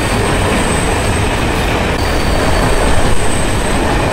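Passenger train passing close by at speed: a loud, steady rumble and rush of coaches' wheels on the rails.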